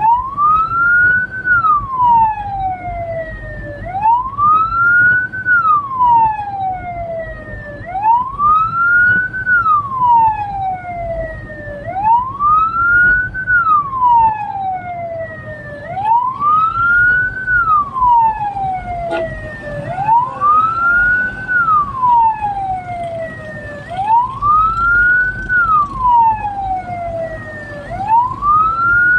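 Hearse's siren wailing in a repeating cycle: the tone rises over about a second and a half, then falls more slowly, starting again about every four seconds. Low vehicle road rumble runs underneath.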